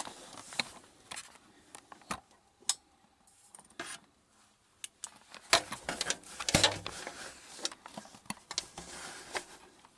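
Scattered light clicks, taps and rustles of handling, with a couple of sharper knocks a little past the middle.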